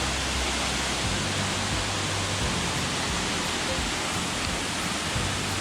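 Waterfall plunging about 73 feet into a sinkhole, a steady, even rushing of falling water.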